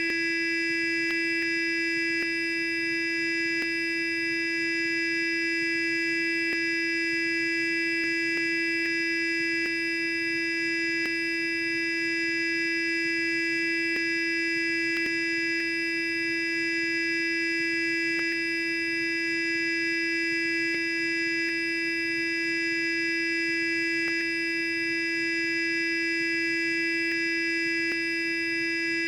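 Sonic electric toothbrush running continuously: a steady buzzing hum with one strong low pitch and a row of higher overtones, unchanging in level.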